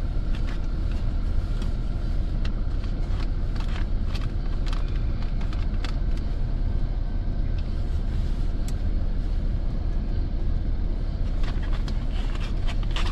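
Steady low rumble of a pickup truck's engine idling, with scattered light clicks and rustles over it.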